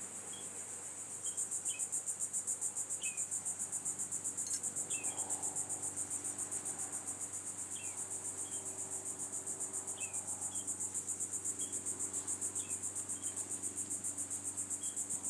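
Chorus of insects making a high, rapidly pulsing buzz that grows louder about a second in, with short high chirps now and then.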